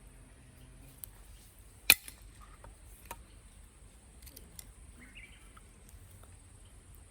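One sharp knock of a hatchet striking firewood about two seconds in, with a few fainter knocks and ticks around it. A bird chirps briefly past the middle, over a steady faint high hiss.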